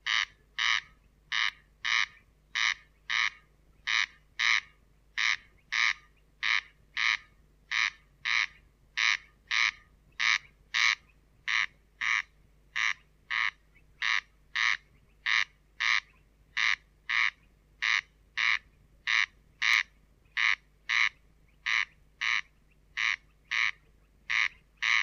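Corncrake calling: short, dry rasping calls repeated steadily at about two a second.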